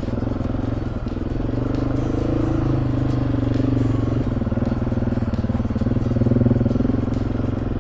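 Husqvarna 701 single-cylinder motorcycle engine running steadily, its pitch rising and falling a little.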